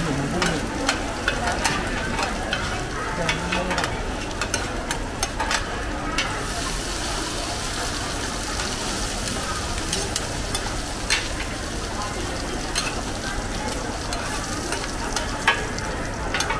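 Hoy tod (crispy seafood omelets) frying in shallow oil on a large flat round pan: a steady sizzle, with frequent clicks and scrapes of a metal spatula and ladle working the pan. The sizzle brightens about six seconds in.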